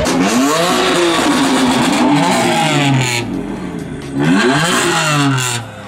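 Car engine revving hard in two long sweeps, the pitch climbing and then falling each time; the second sweep begins about four seconds in.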